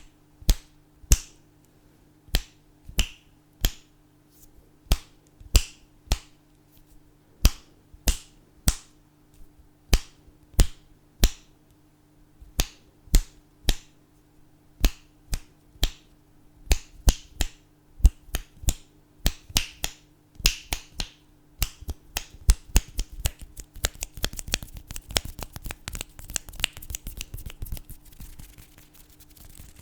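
Fingers snapping close to the microphone: sharp single snaps, often in pairs, about one to two a second. About two-thirds of the way through they speed up into a fast run of quieter clicks.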